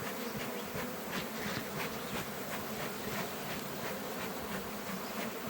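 A swarm of honey bees buzzing in a steady, even hum as the captured swarm is run into a hive box.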